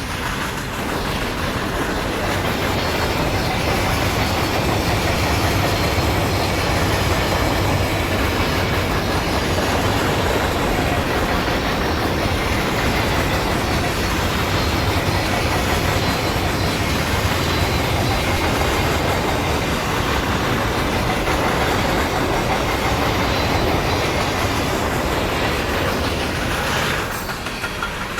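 Intermodal freight train rolling past, with a steady rumble and clatter of wheels on the rails. The sound eases slightly near the end.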